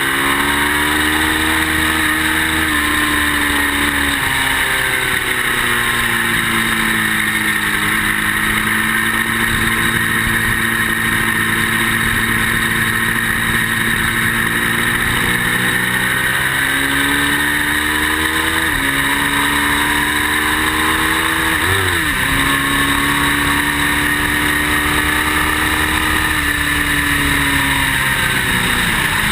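Ducati motorcycle engine at speed on a racetrack. The revs sink over the first several seconds, hold steady for a long stretch, then climb again, with sudden drops at a few gear changes in the second half.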